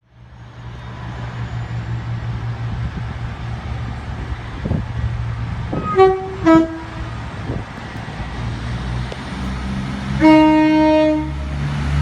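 Two-tone train horn: two short blasts about six seconds in, the second lower than the first, then a longer low note near the end, over a train engine's steady low rumble.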